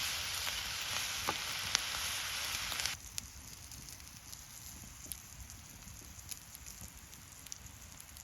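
Food sizzling in a pan. The sizzle cuts off abruptly about three seconds in, leaving a quieter campfire crackling with scattered pops.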